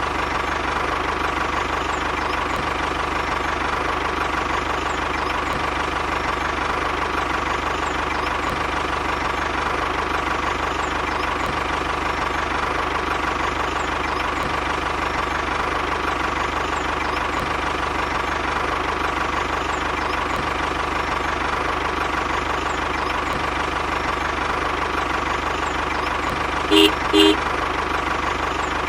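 A tractor engine running at a steady idle, the same throughout, with two short horn beeps near the end.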